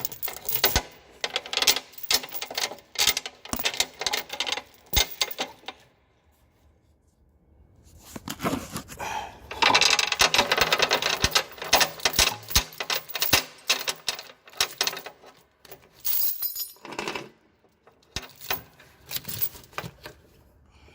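Steel tow chain clinking and rattling in irregular bursts as it is fed link by link through a gap in a truck's frame, with a short pause about six seconds in.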